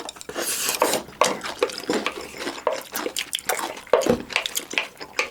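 Metal spoon clinking and scraping against a bowl in a run of irregular short clicks, with wet sounds of food being mixed and eaten.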